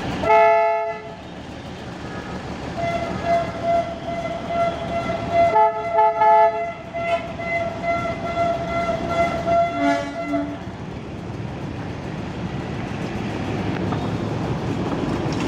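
Narrow-gauge diesel locomotive horns: one short blast at the start, then a long horn note sounding on and off for about eight seconds. A second, lower horn joins briefly around the middle, all over a steady low rumble.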